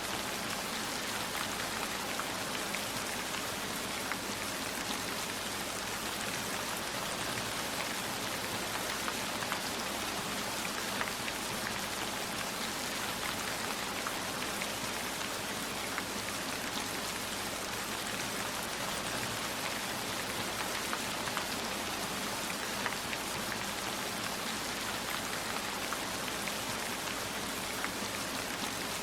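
Steady heavy rain falling, a dense even hiss dotted with many small drop taps.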